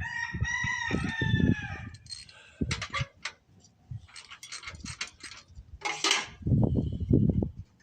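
A rooster crows once, a pitched call lasting nearly two seconds, followed by a series of sharp clicks and a short hiss about six seconds in.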